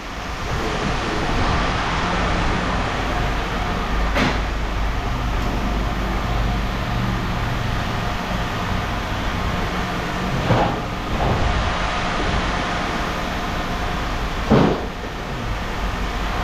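A steady engine rumble, with three single clanks of scrap metal being tossed, about four, ten and fourteen seconds in.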